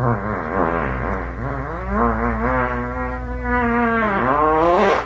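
A dog howling in one long drawn-out wavering note that rises near the end, then cuts off abruptly.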